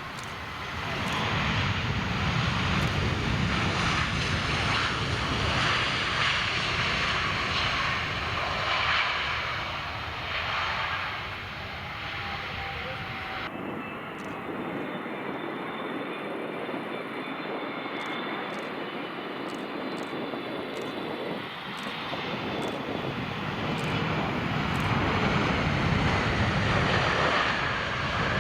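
Airliner engines running loud as aircraft move on or near the runway, with faint whining tones gliding in pitch. Wind buffets the microphone with a gusty low rumble during the first half. About halfway through the sound changes abruptly to another aircraft's steadier engine noise with a high whine.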